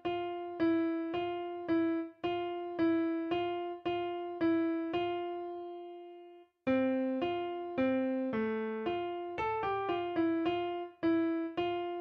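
Electric piano playing the alto line of a hymn alone, one note at a time, at about two notes a second. A long held note dies away about six and a half seconds in, and after a brief gap the line resumes with a few quicker notes.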